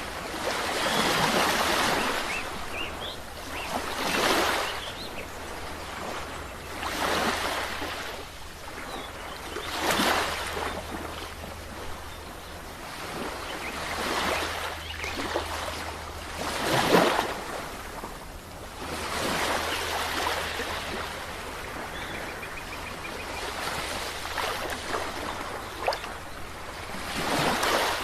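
Sea waves breaking and washing up the shore, each surge swelling and falling away every few seconds, with a steady low rumble of surf underneath.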